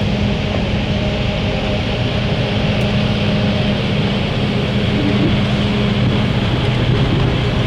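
Diesel locomotive engine running steadily with a constant low hum.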